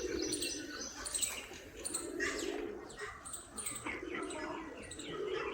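Small birds chirping repeatedly, over a steady low cooing.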